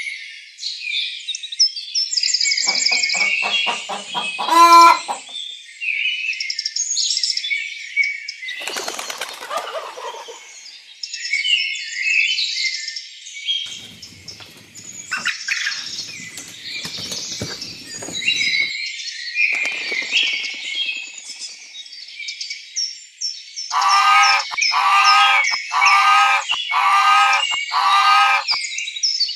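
Many small birds chirping and twittering without a break, with a lower call repeated five times, about once a second, near the end.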